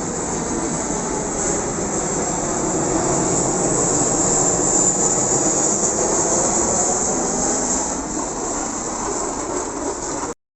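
Aircraft passing low overhead: a loud rushing engine noise that swells to its peak around the middle and then eases off, cutting off abruptly just before the end.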